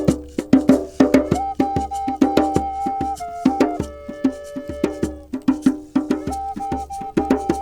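A tuned percussion instrument played in quick runs of struck notes, each note ringing on with a clear pitch, as sound-therapy music.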